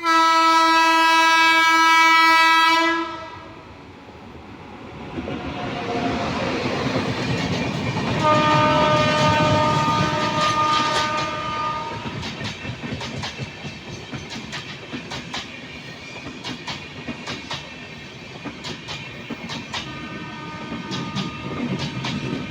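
Indian Railways train passing: a loud, steady locomotive horn blast for about three seconds, then the train's rumble builds and the horn sounds again for about four seconds. After that comes the rhythmic clickety-clack of wheels over rail joints, with a fainter third horn near the end.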